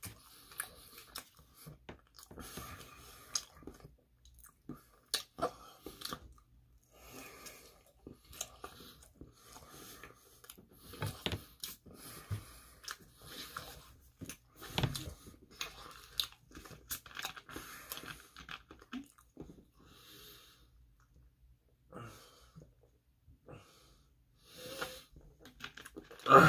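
A person chewing pizza, close to the microphone: irregular crunches and chewing sounds, with a quieter pause about three-quarters of the way through.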